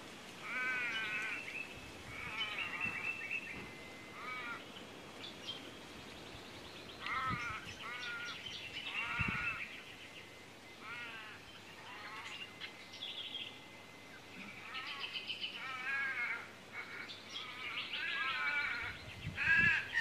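Wild birds calling: short calls repeated in clusters every second or two, some of them overlapping.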